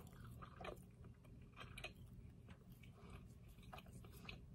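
Near silence with faint, scattered mouth clicks of someone quietly chewing a soft bite of Dutch baby pancake.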